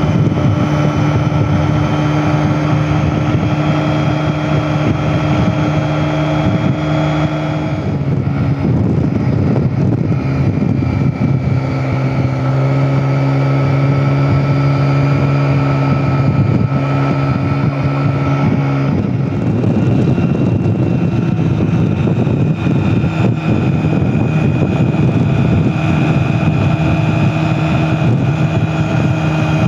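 Small two-wheeler engine running at a steady road speed, with wind rushing over the microphone. The engine note drops about a quarter of the way in and rises again about two-thirds of the way through.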